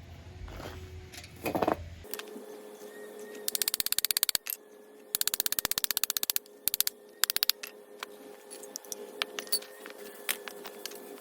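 Two fast runs of sharp, even clicking, each lasting about a second and coming at roughly a dozen clicks a second, then scattered single clicks, all over a steady hum. The clicking is typical of hand tools at work on metal.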